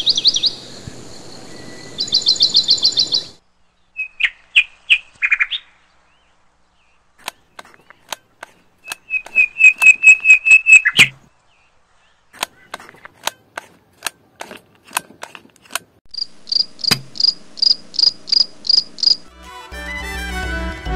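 Birds chirping in quick repeated series of high, short notes and trills, with scattered sharp clicks between the series. Music fades in near the end.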